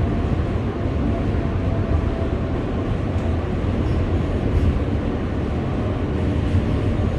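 NYC Subway R143 car running on the L line, heard from inside the car: a steady low rumble of wheels and running gear with a faint thin whine above it.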